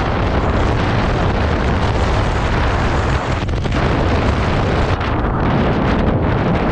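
Strong wind buffeting the microphone of a moving scooter: loud, steady, low rumbling wind noise that covers everything else.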